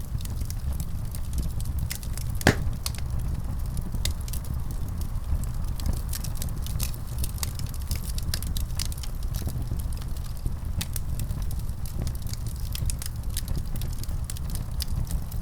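Wood fire crackling in a fireplace: a steady low rumble of flames with frequent small crackles and one louder pop about two and a half seconds in.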